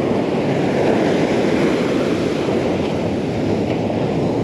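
Steady rush of heavy Gulf surf breaking, mixed with wind buffeting the microphone.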